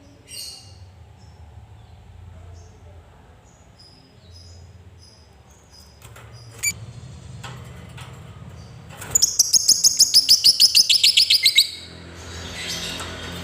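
Lovebird calling: faint scattered high chirps, then about nine seconds in a loud, fast, even run of shrill chirps, about six a second, for some two and a half seconds. This is the long chattering song that Indonesian keepers call ngekek.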